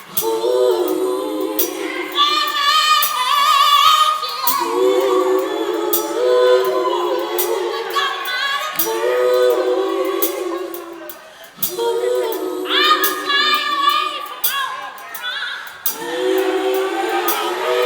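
Three female backing singers singing a cappella in close harmony: long held chords that swell and fade in phrases of about four seconds. Sharp, regular clicks keep time under the voices.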